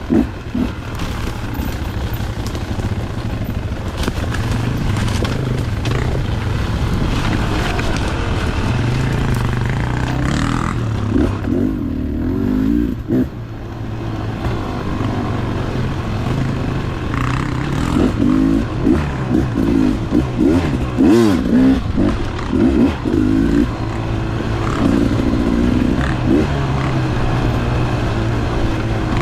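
Two-stroke dirt bike engine running under way, its revs rising and falling with the throttle, more sharply in the second half. Scattered clatter and knocks sound over the engine.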